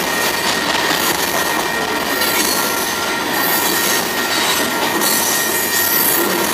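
Freight cars rolling past close by: a loud, steady noise of steel wheels on the rails, with a thin steady wheel squeal over it.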